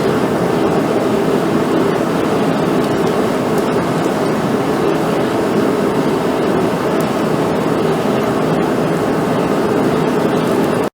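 Forge running for the heat treat: a loud, steady rushing noise that cuts off suddenly at the very end.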